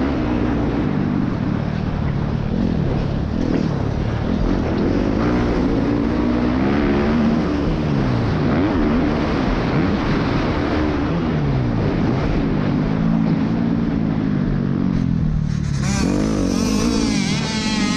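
Motorcycle engine running while riding, its pitch rising and falling with the throttle and gear changes, over steady wind and road noise. A higher, wavering sound joins near the end.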